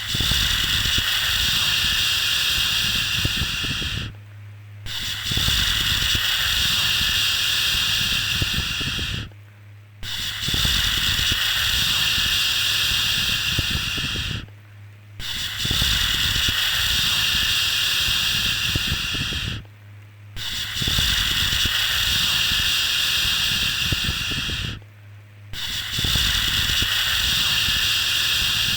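A repeated 'shhh' shushing sound to soothe a baby. Each shush is a long hiss lasting about four and a half seconds, followed by a brief pause, six times over. A steady low hum continues underneath.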